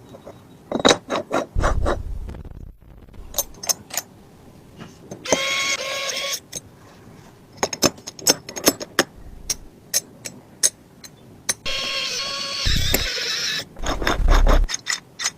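Small mechanism clicking and knocking, with two short spells of a small motor whirring at a steady pitch, about five seconds in and again near the end, and a few low thuds.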